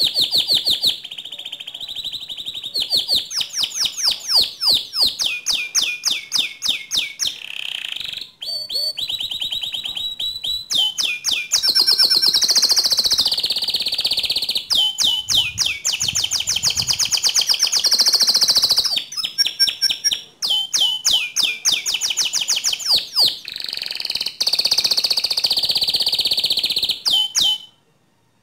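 Domestic canary singing a long, loud song of fast rolling trills and rapid strings of high repeated notes, shifting from one phrase to the next. The song cuts off suddenly near the end.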